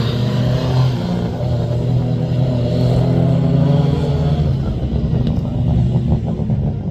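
Rally car engine running close by at a fairly steady pitch. Its note turns rougher and more uneven about two-thirds of the way through.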